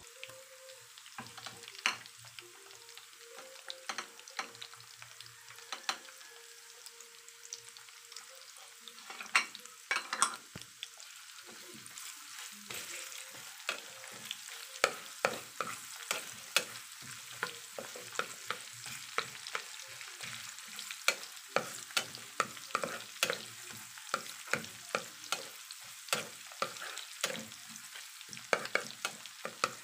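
Red onion and garlic sizzling in oil in a nonstick frying pan, stirred with a wooden spatula that clicks and knocks against the pan. The knocks are few at first and come quick and irregular through the second half.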